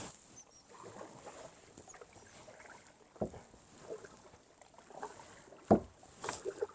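Kayak paddling: paddle strokes dipping and splashing in the water, with a few sharp knocks, the loudest about three-quarters of the way through.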